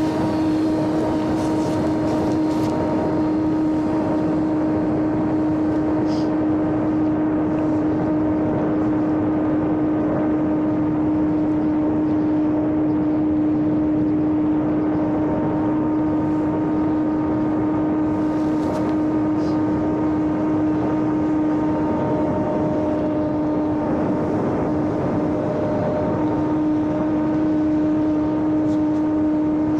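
Electric motor and propeller of a small RC airplane running at steady throttle in flight: a constant buzzing drone that holds one pitch, with rushing air noise under it.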